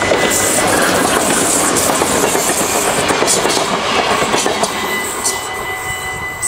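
Yellow-and-blue NS passenger train passing close by over a level crossing, a loud wheel-and-rail rumble that swells at the start and fades near the end. Under it the crossing's warning bells ring a steady tone.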